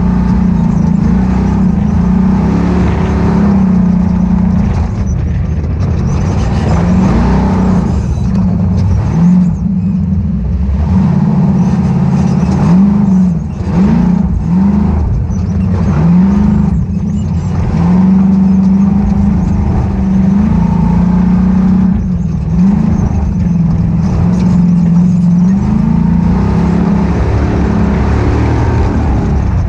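Ultra4 off-road race car's engine running loud, its pitch rising and falling over and over as the throttle is opened and closed, with a run of quick short revs in the middle and steadier pulls before and after.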